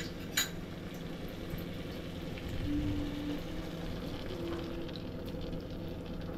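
Curry masala sizzling as it fries in a pan, with a single clink of a utensil about half a second in.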